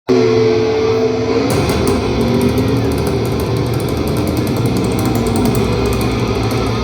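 Heavy metal band playing live, loud distorted electric guitars holding sustained notes. About a second and a half in, drums and cymbals crash in, heard through the venue's PA.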